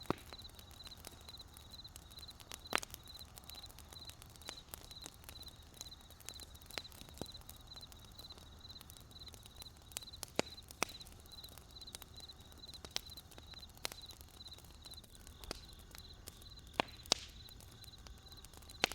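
Wood campfire crackling with scattered sharp pops, a few of them louder, over crickets chirping in a steady high pulsing rhythm.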